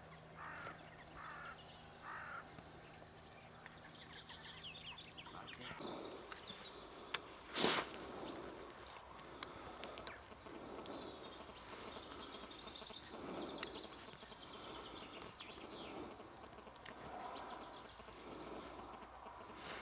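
Birds calling outdoors: four short calls in quick succession at the start, then scattered high chirps over steady outdoor noise. A sharp click and a louder brief thump come about seven to eight seconds in.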